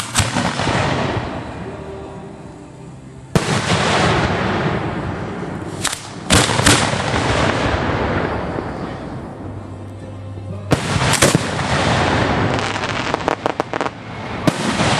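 Hand-fired fireworks shells going off at close range from mortar racks: sharp bangs every few seconds, some in quick pairs and triples, each followed by a long fading rush. A run of quick crackles comes near the end.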